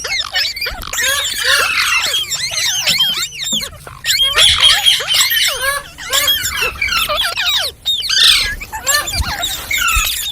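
Green parrots chattering: a dense, overlapping stream of many short high chirps and squawks that rise and fall in pitch.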